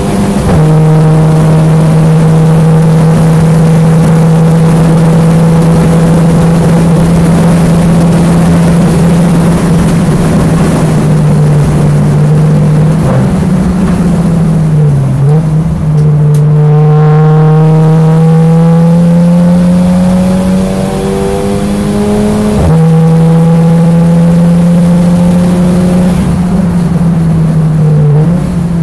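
Racing saloon car engine running hard at sustained high revs, its note dipping briefly a couple of times around the middle, climbing slowly, then dropping sharply about three-quarters of the way through as the throttle is lifted, and picking up again.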